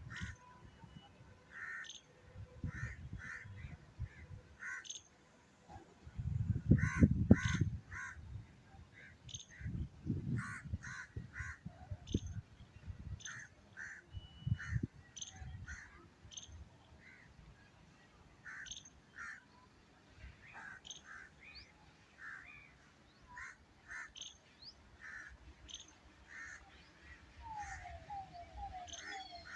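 Crows cawing repeatedly in short, irregular calls throughout. A low rumble swells about six to eight seconds in, the loudest moment, with a smaller one around ten seconds.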